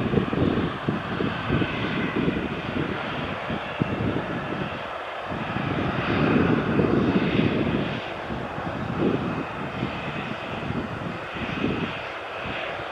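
Airliner jet engines running: a steady rushing noise with a faint high whine over an uneven low rumble that swells and fades.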